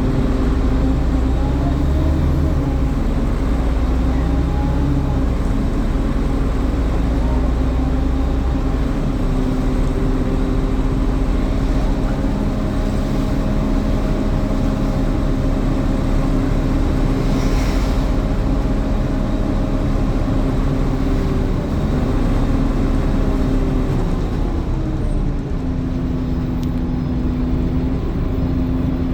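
Scania N230UD double-decker bus heard from inside while running: the engine's drone under a steady whine from the cooling fans. A heavy low rumble eases about a third of the way through, and the whine's pitch dips and settles again near the end.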